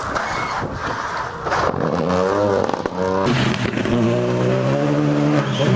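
Rally car engine at high revs on a gravel stage. A rush of gravel and tyre noise gives way to the engine note, which wavers up and down about two seconds in, then holds and rises slowly from about three seconds.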